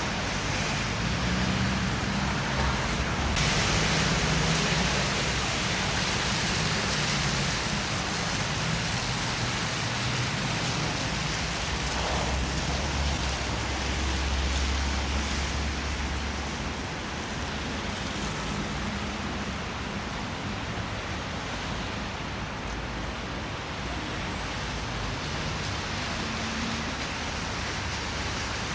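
Steady city street noise: the hiss of traffic on wet, snowy roads, with a deeper low rumble for a few seconds around the middle.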